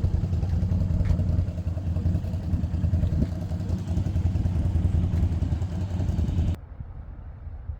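A vehicle engine running with a steady low rumble, cut off suddenly about six and a half seconds in, leaving only a faint low noise.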